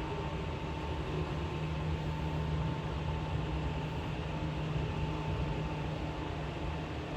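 Seibu 4000 series electric train running at speed, heard from inside the car: a steady rumble and hum of wheels and running gear, with a faint high tone that fades out near the end.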